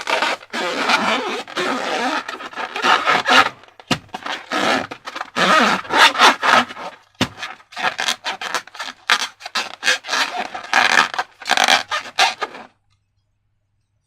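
Slime being worked by hand, with a fast run of wet scraping and squishing strokes that stops abruptly near the end.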